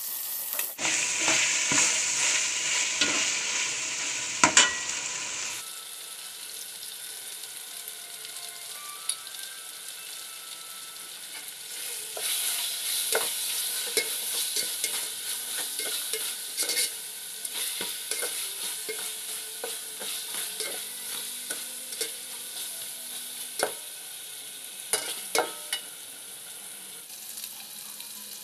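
Chicken and onions sizzling in hot oil in a metal pot, stirred with a metal slotted spoon that scrapes and clicks against the pot. The sizzle is strongest over the first five seconds or so, drops, then rises again a little before halfway.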